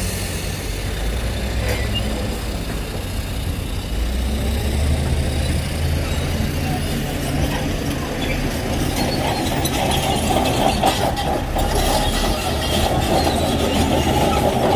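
Diesel engine of a Shantui crawler bulldozer running under load while it pushes soil, with steady engine drone and rattling track clatter that grows louder about halfway through.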